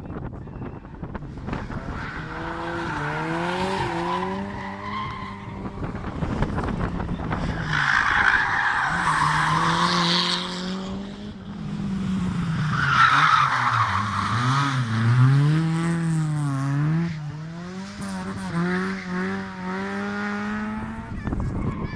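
Historic rally car engine revving hard, its pitch rising and falling repeatedly through gear changes and lifts, with tyre squeal as it slides through the corners, loudest around the middle.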